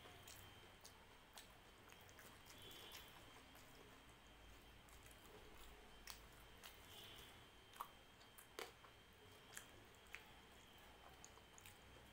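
Faint chewing and wet squishing of a person eating rice and dal with her fingers, with scattered soft clicks, more of them in the second half.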